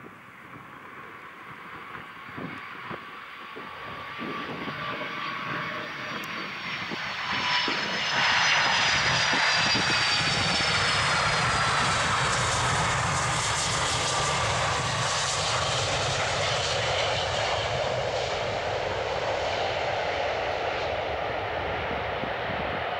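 Boeing 757-200 jet airliner coming in to land: its engines swell in loudness to a peak about eight seconds in as it passes by, with a whine that slides down in pitch, then a steady jet noise that slowly eases off.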